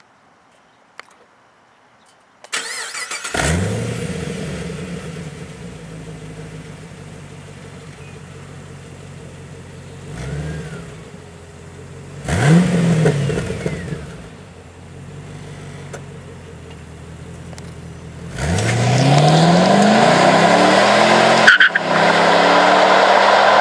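2009 Pontiac G8 with a custom exhaust of twin X-pipes, resonators and FloMaster Delta 50 three-chamber mufflers, cranked and started: it catches with a rev flare, settles to a steady idle, and takes two throttle blips, the second louder. Near the end the revs climb and hold at a higher steady pitch, much louder, with a brief break partway through.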